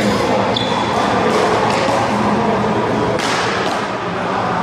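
Rubber handball smacking several times as it is hit by hand and rebounds off the wall and pavement during a rally, over steady background noise.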